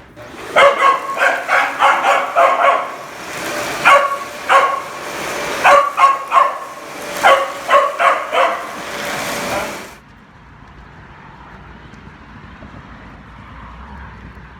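Young Australian Shepherd/Border Collie mix puppy barking repeatedly in quick runs of short, high barks, then stopping abruptly about ten seconds in; a faint steady background noise follows.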